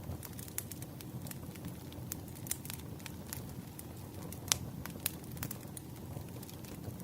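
Firewood burning with irregular crackles and pops over a low, steady rumble of flames; one sharper pop about four and a half seconds in.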